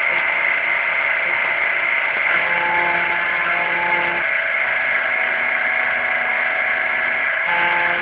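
Home-built CNC router engraving a circuit-board pattern into MDF: steady spindle whir and cutting hiss, with motor tones that shift pitch every couple of seconds as the machine changes its moves.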